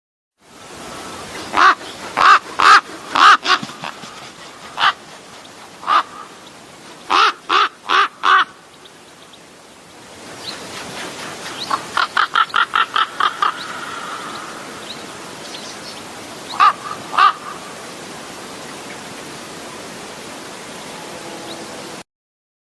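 A bird calling with short, harsh calls in clusters of two to five, then a faster run of about ten near the middle, over a steady outdoor background hiss.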